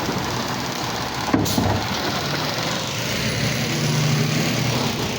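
Garbage truck engine running, with one sharp bang about a second and a half in; the engine hum grows a little louder near the end.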